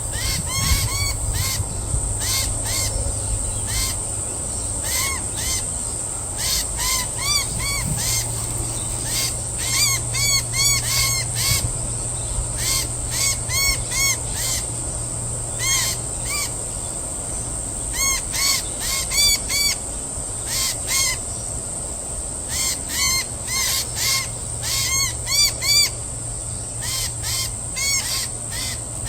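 A bird calling over and over in short runs of three to five arched notes, over a steady high-pitched hiss.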